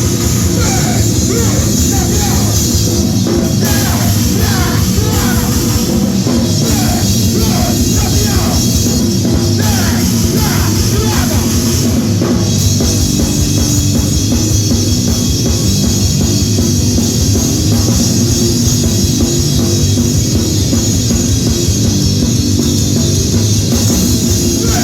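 Live extreme metal or grindcore, loud and dense: fast drumming under heavy distorted guitar, with shouted vocals in the first half.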